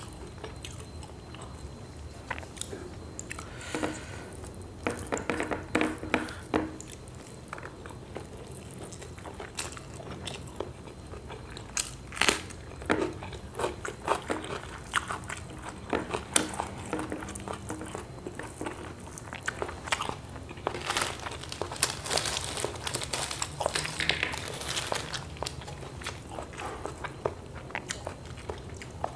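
Close-miked eating by hand: chewing and biting with wet mouth clicks and short crunches throughout, and a denser stretch of crisp crunching, crackers (kerupuk) being bitten, about three-quarters of the way through.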